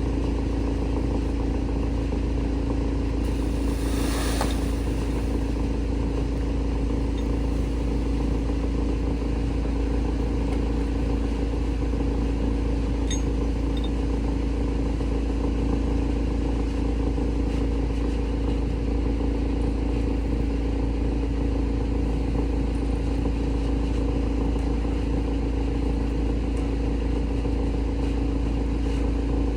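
Large industrial wood shredder running steadily, a constant heavy machine drone with a strong hum. A short hiss comes about four seconds in.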